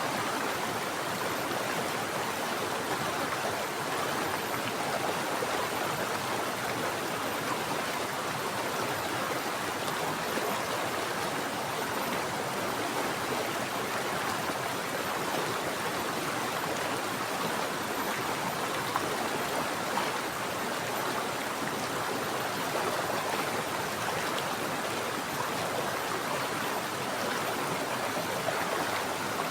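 Mountain water flowing in a steady, even rush, with no breaks or changes.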